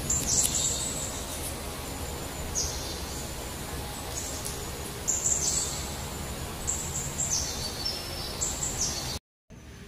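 Small birds chirping: short, very high calls that drop in pitch, repeating every second or so over a steady low background noise. The sound cuts off sharply about nine seconds in.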